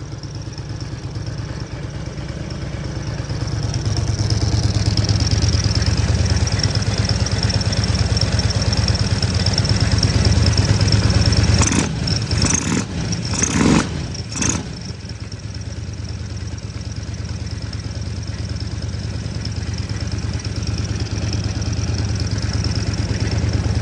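A vehicle engine running with a steady low rumble that grows louder over the first few seconds and holds there. About halfway through come a few sharp knocks and clatter, after which it runs on more quietly, rising slightly near the end.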